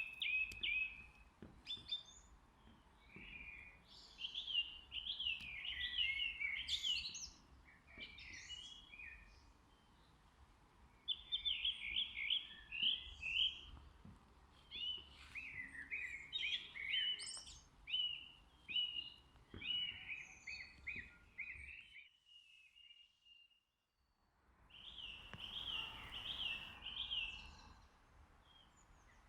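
Songbirds singing in phrases of quick repeated chirping notes over a faint low rumble. The sound cuts out completely for about two seconds after the twenty-second mark, then the song resumes.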